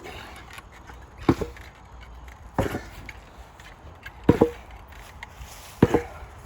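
An 8 lb sledgehammer striking a training target four times, about every second and a half, each blow a heavy thud with a short ring after it.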